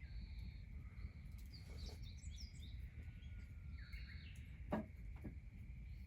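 Small birds chirping in short phrases over a steady, thin high drone and a low outdoor rumble. Two sharp snaps come about half a second apart, a little past the middle.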